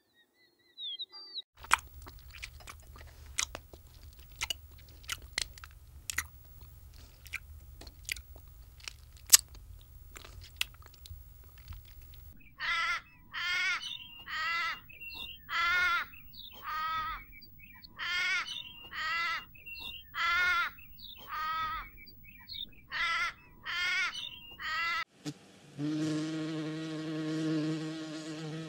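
Scattered sharp clicks and crackles over a low hum, then a run of about a dozen loud, wavering animal calls, roughly one a second. Near the end these give way to the steady buzz of a hoverfly's wings.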